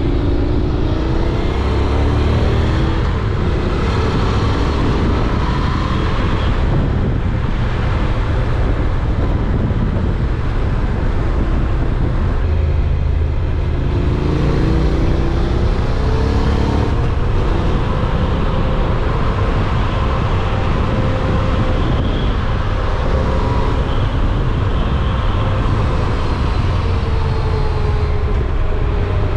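Honda NC750X's parallel-twin engine running while the motorcycle is ridden downhill on a mountain pass, its note rising and falling several times, over a steady heavy rush of noise.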